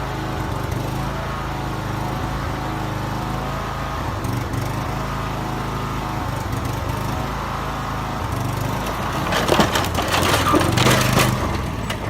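An engine running steadily, with a burst of cracking and crunching from about nine to eleven and a half seconds in.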